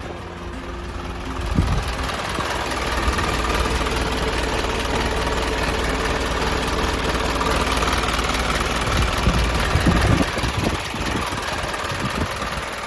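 Isuzu Forward truck's diesel engine running steadily with a deep rumble. It gets louder about a second and a half in, with a few low thumps near the start and again around ten seconds in.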